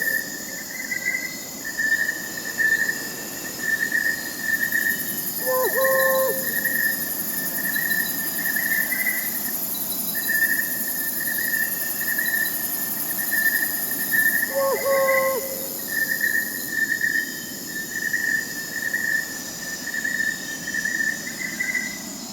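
Crickets chirping in a steady, pulsing trill, with an owl calling twice: short hoots that drop in pitch at the end.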